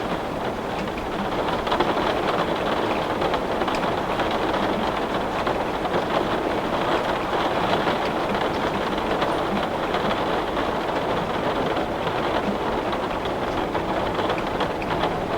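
Heavy rain pattering steadily on a window pane, a dense even hiss with scattered small drop ticks.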